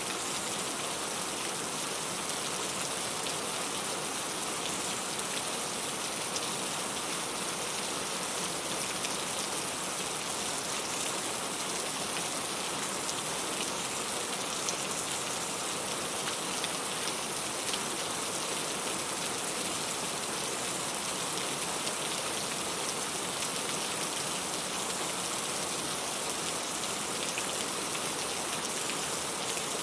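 Steady rain falling, a constant hiss of drops with fine pattering ticks.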